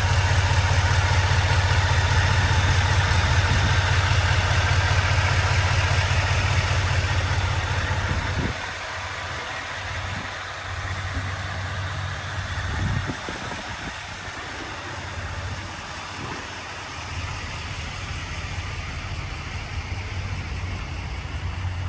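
Chevrolet Silverado 2500HD pickup engine idling with a steady low hum. It becomes noticeably quieter about eight and a half seconds in, with a brief louder swell around thirteen seconds.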